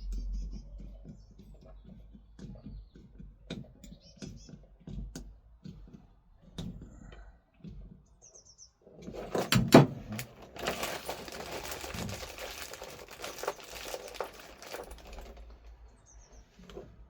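Hand-work handling noises: scattered small clicks and knocks, a loud knock about ten seconds in, then about five seconds of crinkly rustling.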